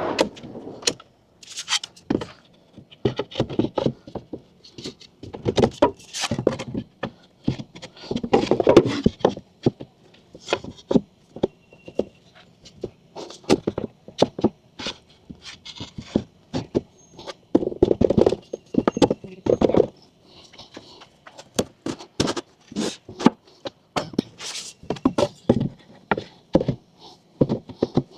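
Irregular knocks, clunks, clicks and short scrapes from parts of a camper platform and drawer kit being handled and fitted in the back of an SUV.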